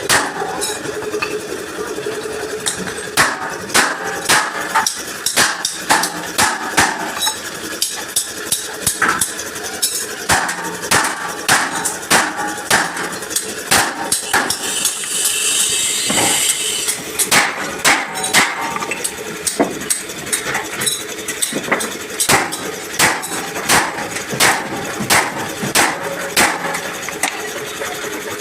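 Repeated hammer blows on a dented metal truck front bumper during dent repair: sharp strikes about one to two a second, irregular in timing. A few seconds of hiss come near the middle.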